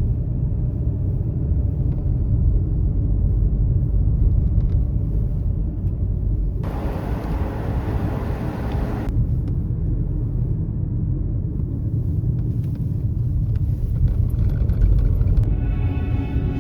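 Steady low rumble of a car driving on the road, with a hissier rush for a couple of seconds about seven seconds in.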